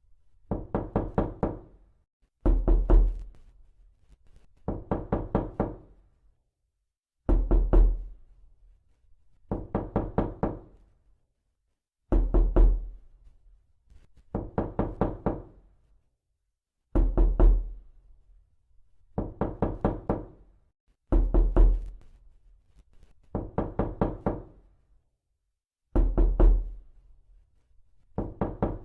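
Knuckles rapping on a wooden door in quick groups of about four or five knocks. A new group starts every two seconds or so, some louder than others, with dead silence between them.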